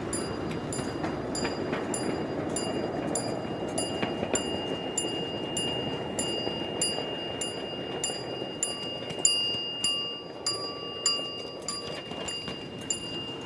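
Miniature live-steam railroad train rolling along the track: a steady rumble with wheels clicking over rail joints about twice a second, and a thin steady high whine that grows stronger about four seconds in.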